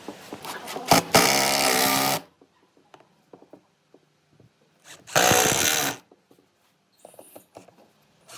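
A power tool running in two short bursts of about a second each, with small clicks and knocks between them.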